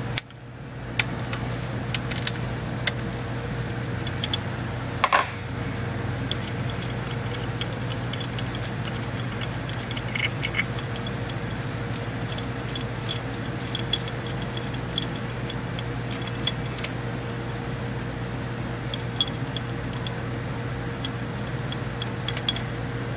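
Light metallic clinks and taps from hand tools and thread-repair parts being handled on an engine block, scattered throughout with one louder click about five seconds in, over a steady low hum.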